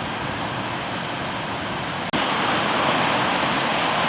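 Steady rushing noise that drops out for an instant about two seconds in and comes back louder and brighter.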